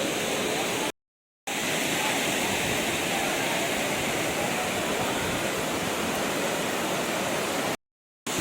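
Waterfall rushing, a steady noise of falling water. It is broken twice by half-second gaps of total silence, about a second in and near the end.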